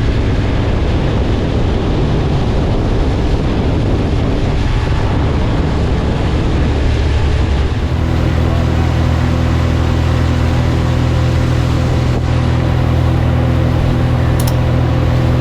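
Small boat's outboard motor running under way, with a low rush of wind and water. About halfway through, the engine note settles into a steady, even hum.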